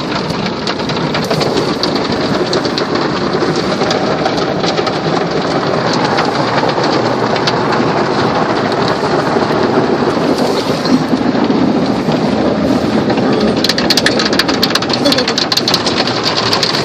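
Belanger mini tunnel car wash spraying water onto the car, a steady heavy drumming of spray on the body and glass heard from inside the cabin. A run of rapid sharp ticks comes near the end.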